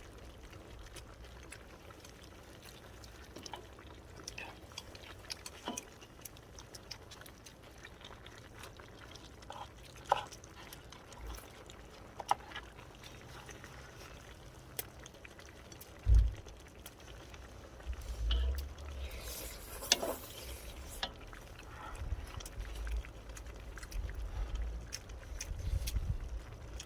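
Scattered light clinks and clicks of a spoon against a bowl during a meal of soup, with intermittent low rumbles.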